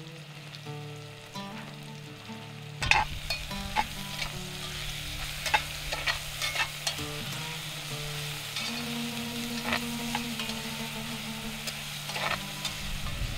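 Sliced onions, green chillies and spices sizzling in hot oil in a heavy pot. A metal slotted spatula stirs and scrapes them, clicking sharply against the pot many times. The sizzling and stirring start about three seconds in.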